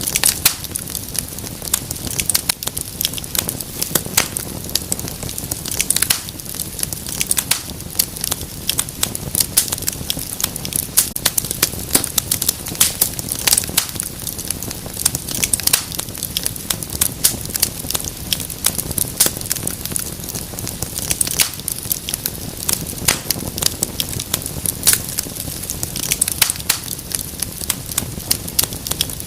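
Wood fire burning in a fireplace, with dense, irregular crackles and pops over a steady low rush of flames.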